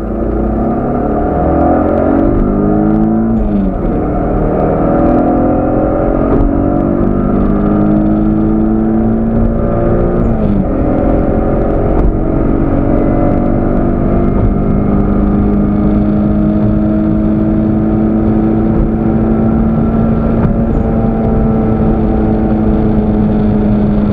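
2001 Mitsubishi 3000GT twin-turbo's 3.0-litre V6, running about 0.7 bar of boost with its catalysts removed and a 3-inch downpipe, accelerating hard. The pitch climbs through second gear, drops at an upshift about three and a half seconds in, climbs through third, drops at a second upshift about ten and a half seconds in, then climbs slowly in fourth.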